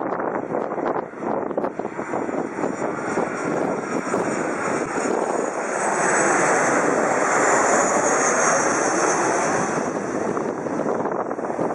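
Airliner engines passing low overhead. The noise swells to a peak between about six and nine seconds in, with a high whine that falls in pitch, then fades. Wind buffets the microphone.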